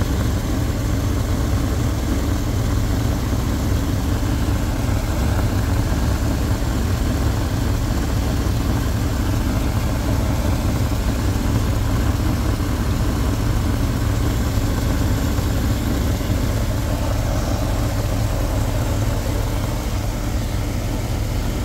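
1972 Lincoln Continental Mark IV's 460 V8 idling steadily. The power steering pump runs without whining now that its reservoir has been topped up.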